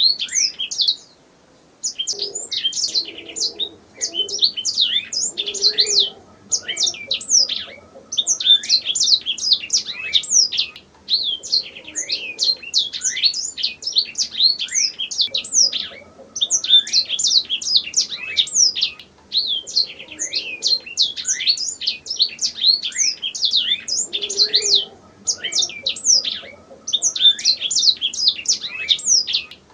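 Domestic canary singing: long phrases of fast, high trills and chirps, each phrase a few seconds long, separated by brief pauses.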